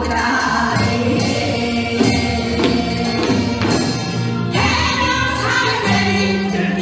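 Korean folk music (Gyeonggi sori) with a group of voices singing over percussion accompaniment.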